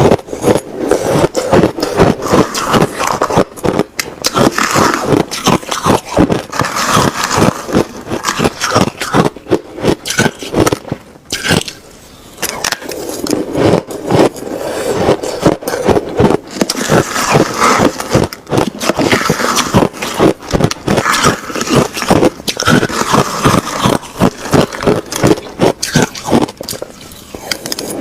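A person chewing ice close to the microphone: a dense, rapid run of loud crunches, with a brief pause about eleven seconds in.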